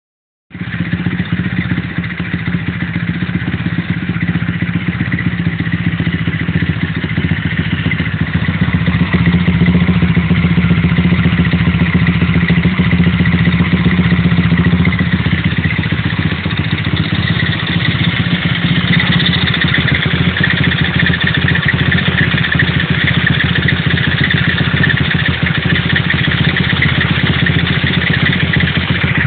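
Simson S50B moped's Honda-copy 50cc four-stroke single-cylinder engine running at a steady speed, getting slightly louder over the first several seconds.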